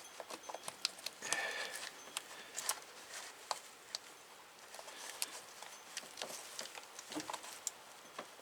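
Hands working a plastic wiring connector off its bracket in an engine bay: scattered light clicks and scrapes, with a brief rustle about a second in.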